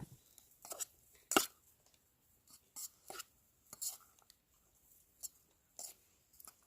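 Irregular sharp taps and clicks of a knife chopping food, about ten strokes at uneven spacing, the loudest about a second and a half in.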